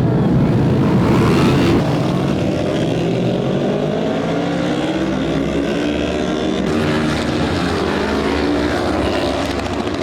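World Superbike racing motorcycle engines running loud, their pitch climbing slowly over several seconds as they rev and accelerate.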